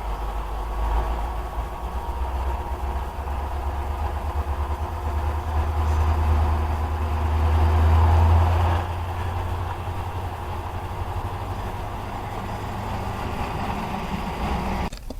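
Air-conditioning compressor running with a steady low hum. The hum swells about six seconds in and drops back about nine seconds in.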